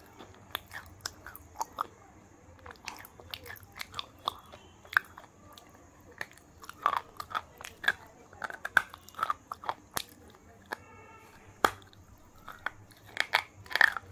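Close-up biting and chewing of KitKat wafer bars: irregular crisp crunches and mouth sounds, with a few sharper snaps near the end.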